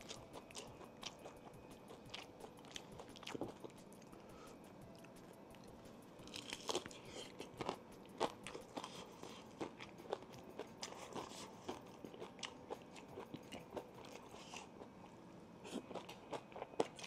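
Close-up eating sounds: biting and chewing crispy fried chicken tenders, with crackling crunches of the breading, loudest in a cluster about six seconds in and again near the end.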